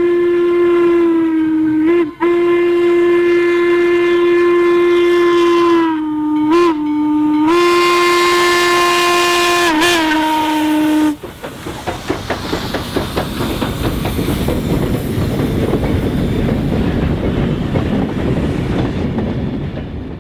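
Western Maryland 1309 steam locomotive's whistle blowing long, loud blasts on one steady note, with brief breaks where the pitch sags as the valve closes. About eleven seconds in the whistle stops and the locomotive runs past with rapid exhaust beats and rail noise, fading near the end.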